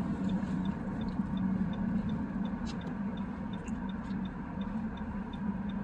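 Car cabin drone of the engine and tyres on a snowy road, with a soft, even ticking about three times a second, typical of a turn-signal indicator.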